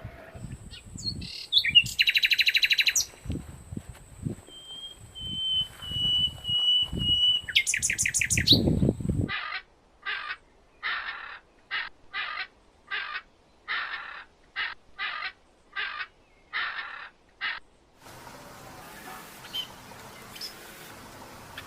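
Bird calls: first a mix of buzzy, rapidly pulsed calls and a held whistle, then a run of about a dozen short, harsh calls repeated a little over once a second, which stop about 18 seconds in.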